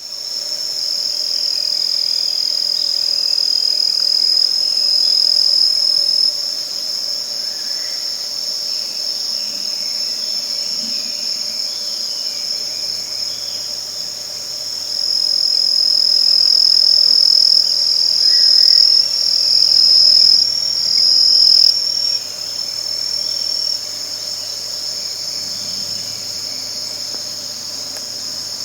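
Insects chirring in a continuous high-pitched drone, swelling louder for a few seconds near the start and again in the middle.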